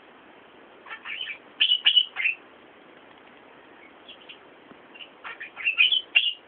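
A small bird chirping: quick runs of short, sharp, falling chirps in two bouts, about a second in and again near the end.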